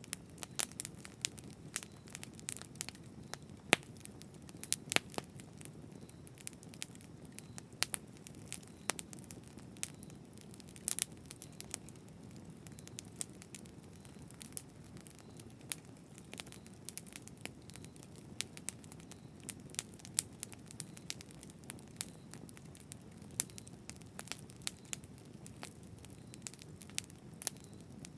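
Campfire burning: irregular sharp pops and snaps of crackling wood over a low steady rumble of flames.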